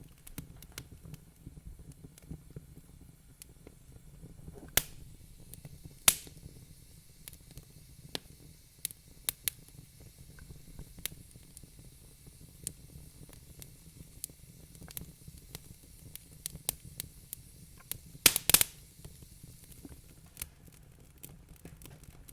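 Wood fire burning in a fireplace: a low steady rumble of flames with irregular crackles and sharp pops, the loudest pops about 5 and 6 seconds in and a quick cluster of them near the end.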